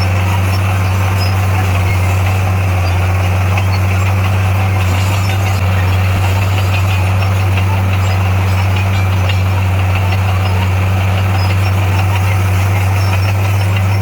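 Heavy equipment's diesel engine running steadily at an even speed, with a deep unchanging hum.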